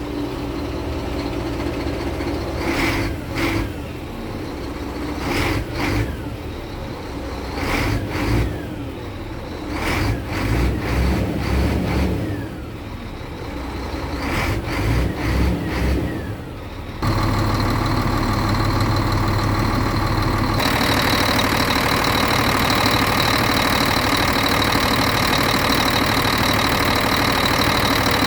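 Scania R tractor unit's diesel engine, just started, idling and blipped in about six short revs, each dying back down to idle. Just past halfway it settles into a steady, louder run that holds to the end.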